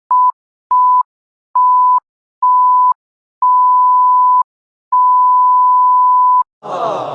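A series of six electronic beeps at one steady pitch, each longer than the one before, with short silences between. Near the end a loud, noisy burst with sliding tones cuts in.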